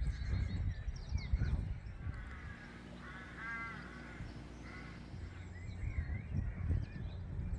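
Outdoor birdsong: a crow caws once about three and a half seconds in, with small songbirds chirping around it over a low rumble.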